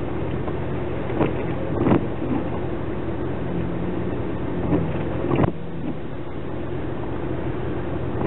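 Off-road vehicle engine running steadily, heard from inside the cabin, with about four short knocks over the first half.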